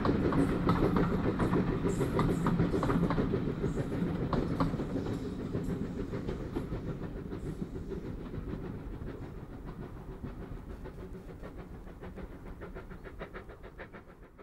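Passenger coaches of a passing train clattering over the rails and rumbling away into the distance, the clickety-clack fading steadily until it is faint near the end.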